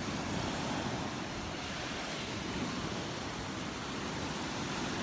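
Gulf of Mexico surf washing onto the beach, a steady even rush.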